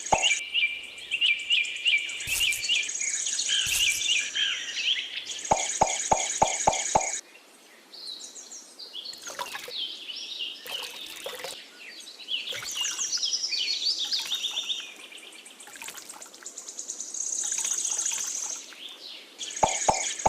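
Birds chirping and twittering, with a regular clicking beat of about six ticks a second that comes in at the start, about six seconds in and again near the end.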